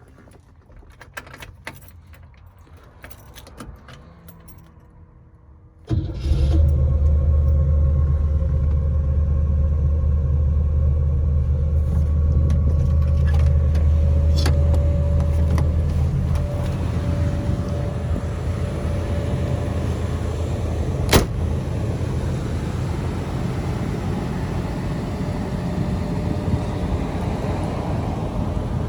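Keys and small clicks for a few seconds, then the 1958 Cadillac Coupe de Ville's V8 starts from cold about six seconds in and runs at a fast idle with a deep, steady drone. After about ten seconds of running the drone eases as the idle settles, with a single sharp click partway through.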